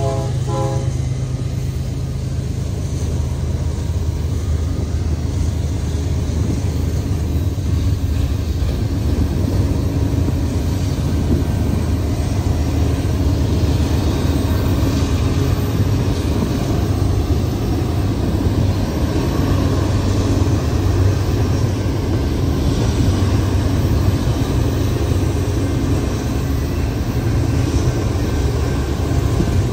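Diesel freight locomotives running past with a loud, steady low rumble. A locomotive's chord horn is sounding at the start and stops about a second in.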